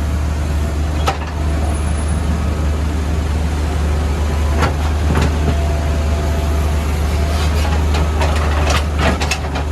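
Caterpillar backhoe loader's diesel engine running steadily, with sharp knocks and clatter now and then as it works on broken road surface, a cluster of them near the end.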